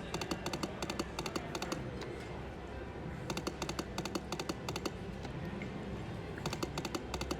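Lightning Link slot machine's rapid clicking and ticking sound effects as its reels spin and stop, in three quick runs, over a steady casino background din.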